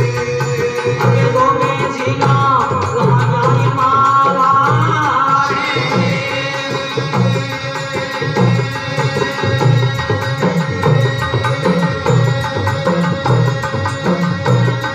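Devotional bhajan music: a hand drum keeps a steady, even beat under a melodic line that wavers up and down for the first few seconds.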